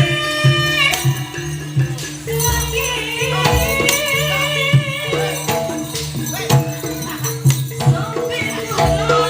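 Live jaranan folk ensemble music: regular drum strokes under held, wavering melody lines.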